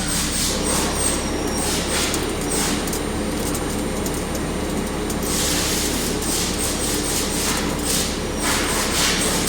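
Mazak QT200 CNC turning lathe running during a turning job: a steady machine drone with several constant tones, broken by irregular hissing surges, the longest starting a little after five seconds in.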